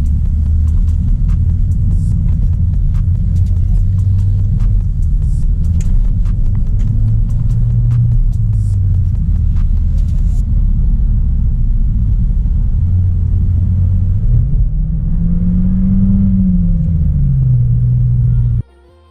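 Low drone of a 2016 Audi A3 Sportback's 1.4 TFSI turbocharged four-cylinder engine with road rumble while driving, with faint ticks a little more than once a second over the first half. Near the end the engine note rises and falls once, then the sound cuts off suddenly.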